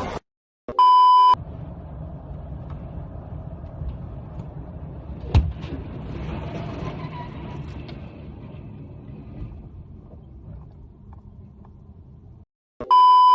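A steady low vehicle rumble with one sharp knock about five seconds in. It is set between two short, loud electronic beeps at one pitch, one about a second in and one near the end.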